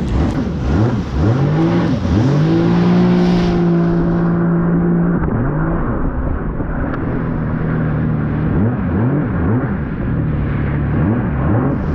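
1800cc jet ski engine revving up and down as the throttle is worked, over water and wind noise. Its pitch climbs repeatedly, holds high for a couple of seconds about two seconds in, then drops and swings up and down again.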